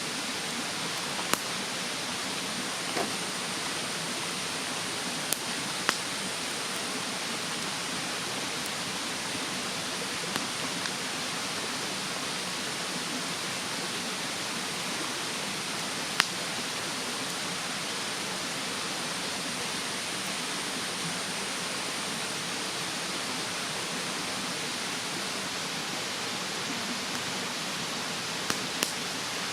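Wood fire crackling, with a sharp pop every few seconds, over the steady rushing of a mountain stream.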